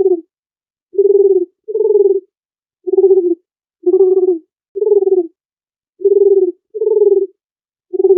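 A dove cooing: a steady run of short, low coos, each about half a second long, coming roughly once a second with some in close pairs.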